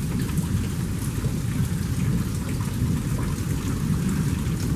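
Rain falling steadily with small drop impacts over a constant low rumble, like a freight train or rumbling thunder without quitting, which the filmer takes for the sound of a nearby tornado.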